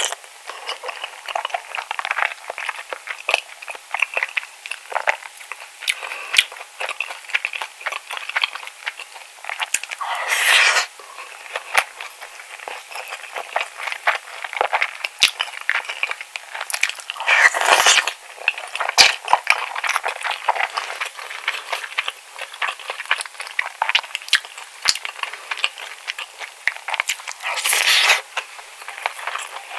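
Close-miked eating sounds of a person chewing mouthfuls of spicy cockle bibimbap: a steady stream of small mouth clicks. Louder bursts come about ten seconds in, near eighteen seconds, and near the end as new spoonfuls go into the mouth.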